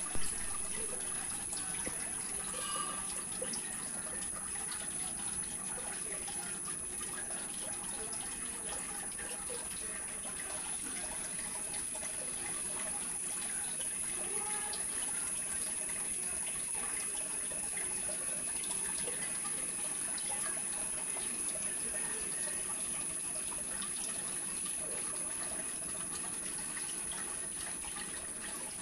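Steady trickling and splashing of water in a small aquarium, typical of a filter outflow running, with a thin steady high whine underneath.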